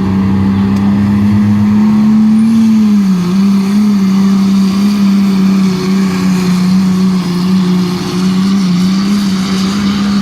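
Ford truck's engine running hard at high, steady revs under load as it pulls a weight-transfer sled. The pitch climbs slightly over the first two seconds, dips about three seconds in, then holds with small wavers.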